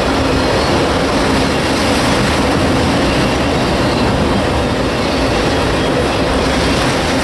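Freight train of autorack cars rolling past: a steady, loud rumble and clatter of steel wheels on the rails.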